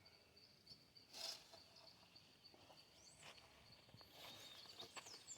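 Faint rural ambience: an insect trilling steadily on one high note, with scattered short bird chirps and two soft rustles, about a second in and just past three seconds.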